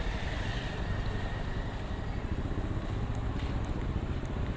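Steady low rumble of a vehicle running, with a hiss of noise over it.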